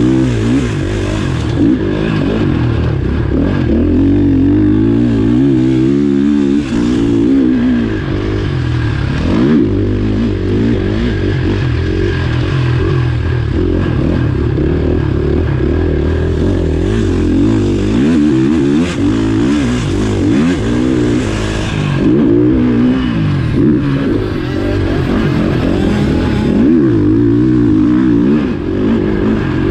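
Motocross bike engine revving hard, its pitch rising and falling over and over as the throttle opens and closes through the gears, heard up close from an onboard camera.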